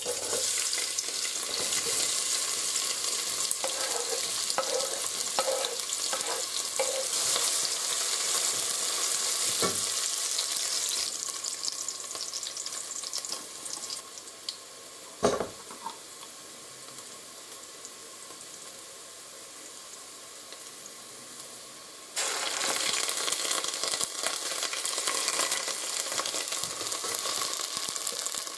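Chopped onions sizzling in hot cooking oil in a pan. The sizzle dies down about halfway through and comes back loud near the end, with a single knock a little after the middle.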